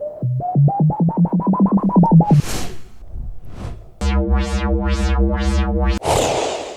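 Electronic sound effects: a fast run of beeps climbing in pitch, two short whooshes, then a pulsing buzzy tone about four seconds in that cuts off into a crash-like burst and fades.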